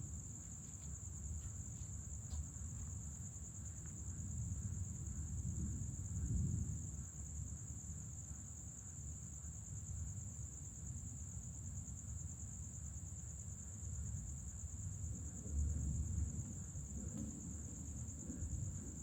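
A steady, high-pitched chorus of crickets, with low rumbles of distant thunder swelling about six seconds in and again near the end.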